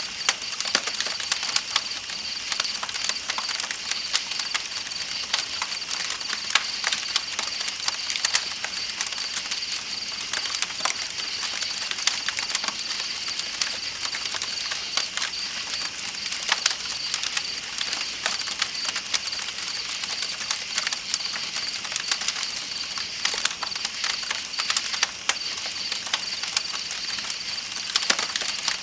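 Campfire crackling with frequent small irregular pops, over the steady high-pitched chirring of night insects and a soft rushing of flowing river water.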